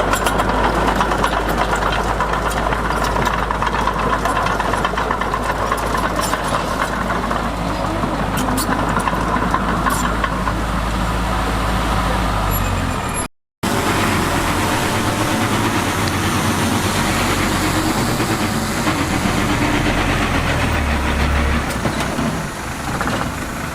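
Diesel engines of earthmoving machines running steadily with a strong low hum. The sound cuts out for a moment about halfway through, and the engine note is different afterward.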